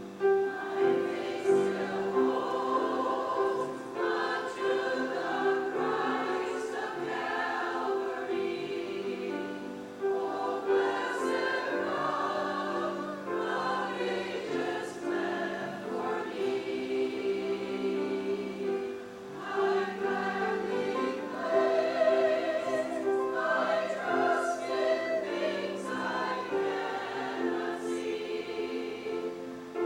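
A choir singing a Christian hymn with instrumental accompaniment.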